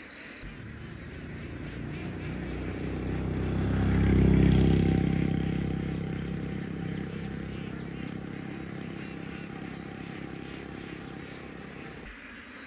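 A motor vehicle's engine passing by: it grows louder to a peak about four seconds in, then fades away slowly.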